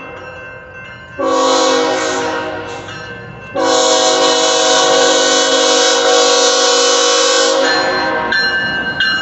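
BNSF freight locomotive's multi-chime air horn blowing for the grade crossing: a blast about a second in, then a long blast from about three and a half seconds until near the end, over the passing train. After the horn stops, the train rolls by with thin, high wheel squeals.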